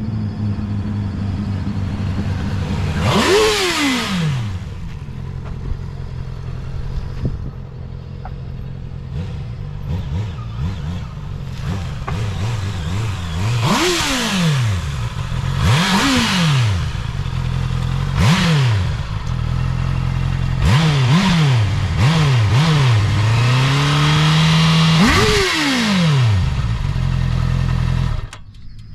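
Honda CB650R inline-four engine heard right at the exhaust outlet, idling with a series of quick throttle blips that rise sharply in pitch and fall back, several in close succession near the middle, then one longer pull and a last big rev before the sound cuts off near the end.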